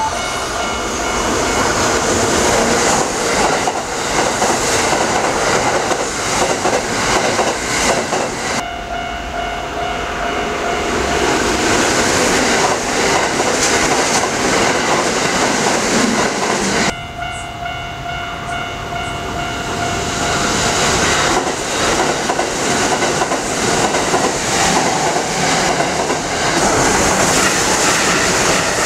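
Kintetsu electric trains running past at speed, the wheels clacking over the rail joints over a steady whining tone. The sound changes abruptly twice, about a third and two-thirds of the way through, as one passing train gives way to another.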